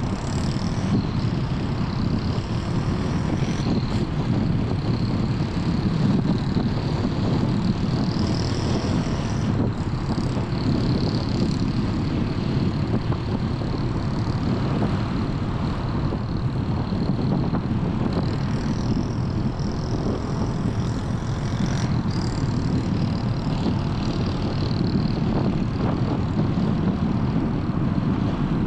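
Steady road noise of a car driving: low tyre rumble with wind hiss and no pauses.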